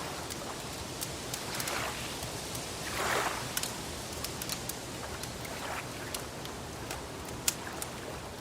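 Wood fire crackling: irregular sharp pops and snaps over a steady hiss, with a soft whooshing swell about three seconds in.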